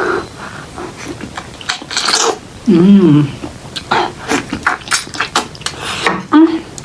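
Close-miked eating: chewing and wet mouth clicks and smacks, with a short hummed 'mmm' about three seconds in and another brief hum near the end.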